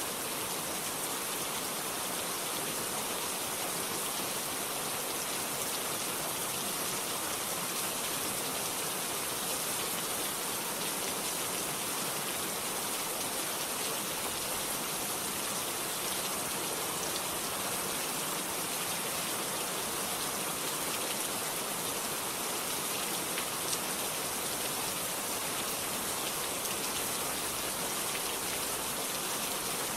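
Steady rainfall, an even hiss of rain falling on surfaces that keeps a constant level without breaks.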